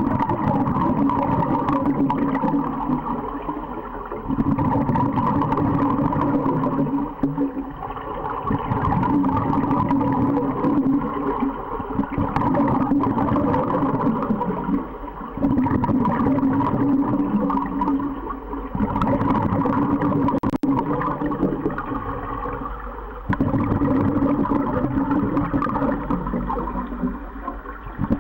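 Underwater sound of a scuba diver breathing through a regulator: gurgling, rushing bubbles that swell and ease in slow, regular cycles a few seconds long.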